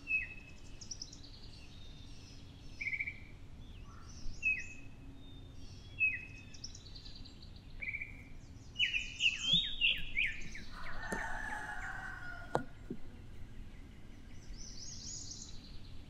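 Birdsong: one bird repeats a short, falling chirp every second or two, a burst of mixed calls comes about nine seconds in, followed by a longer, lower call, all over a steady low background noise.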